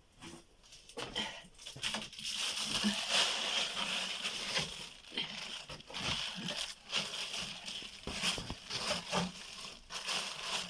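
Irregular crunching and crackling of snow, starting about two seconds in and continuing as a dense, uneven series of crunches.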